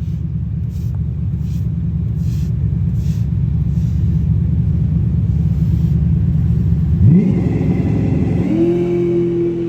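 Drag car's engine rumbling low and steady, then launching: about seven seconds in the engine note climbs sharply and holds high as the car pulls away.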